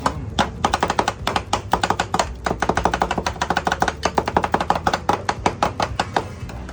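Metal spatulas rapidly chopping and tapping on the frozen plate of a rolled ice cream stall, mixing strawberries into the ice cream base, about six or seven sharp strikes a second.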